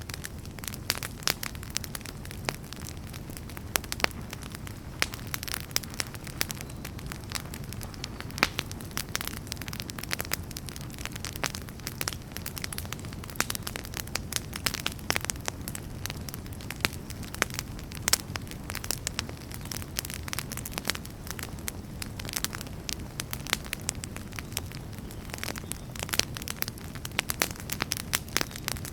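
Wood fire crackling in a fireplace: a steady low rumble of flames with many sharp pops and snaps, irregular and frequent throughout.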